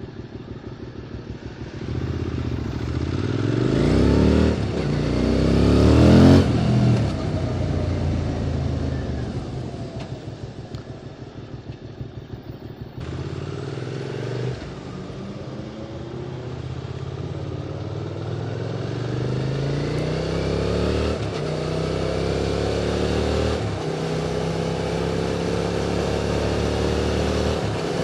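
QJ Motors SVT650X motorcycle with an Arrow Racetech slip-on exhaust accelerating hard through the gears, revs rising in steps with quick upshifts. It then rolls off the throttle and decelerates on the overrun for several seconds, pulls away again with more upshifts, and settles into steadier running in a higher gear.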